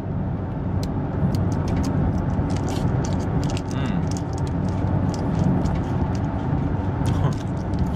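Steady rumble of a running car heard from inside its cabin, with many small sharp crackly clicks on top, fitting crunchy wafer-and-chocolate candy being chewed close to the microphone.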